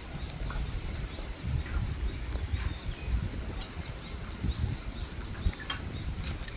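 Outdoor nature ambience: many short, high chirps of birds and insects over a low, gusty rumble of wind on the microphone.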